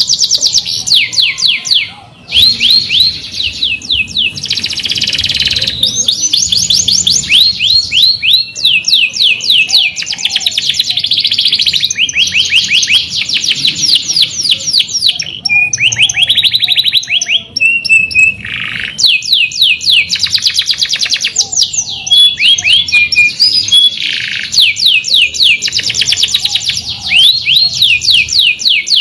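Domestic canary singing a continuous, loud song of fast rolling trills and rapid repeated chirps, phrase after phrase with only brief pauses.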